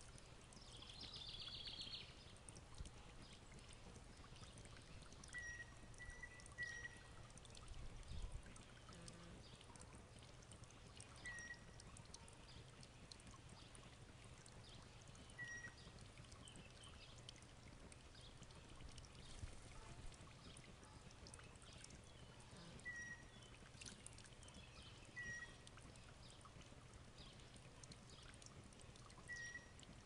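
Faint outdoor quiet with a bird giving short chirps every few seconds, about eight in all, some in pairs, and a brief high trill just after the start, over a faint steady hiss.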